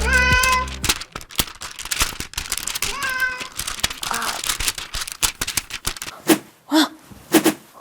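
Domestic cat meowing: one meow right at the start and another about three seconds in, then three short, lower calls near the end, with many small clicks and taps in between.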